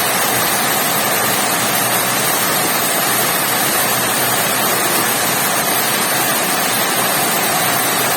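Heavy rain pouring steadily, an even rushing hiss with no let-up.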